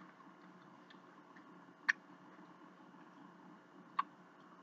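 Three faint sharp clicks about two seconds apart over quiet room tone, from someone eating: mouth or utensil clicks between bites.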